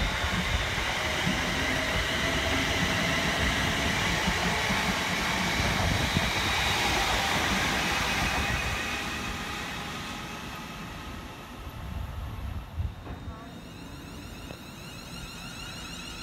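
London Northwestern Railway electric multiple unit running past on the rails, with a steady high whine over the wheel noise. It fades away after about ten seconds.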